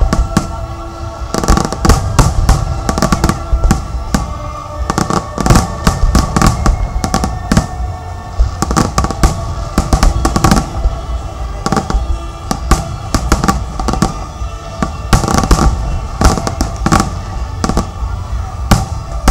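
An aerial fireworks display going off: a dense, irregular run of sharp bangs and crackles, many in quick succession, with music playing underneath.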